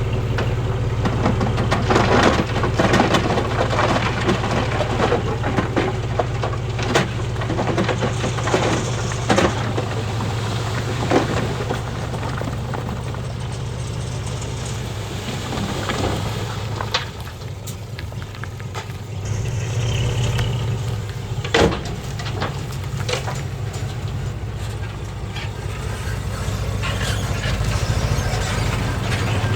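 Heavy diesel earthmoving machinery running steadily, with scattered sharp clanks and knocks as stone is moved.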